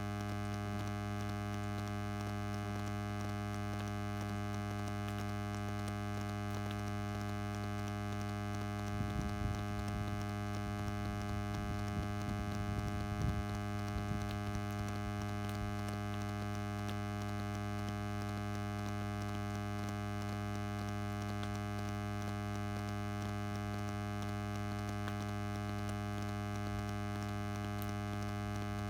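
A steady, even hum with many overtones, with a patch of faint irregular knocks and rustling from about nine to fourteen seconds in.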